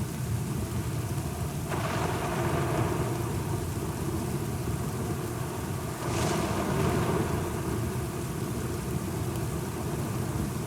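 Thunderstorm: steady rain over a low rumble, with two sudden swells of thunder, one about two seconds in and another about six seconds in, each fading away over a second or so.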